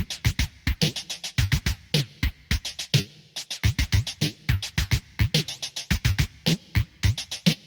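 Electronic music: a dense, glitchy pattern of short clicks and low drum-machine hits, several a second.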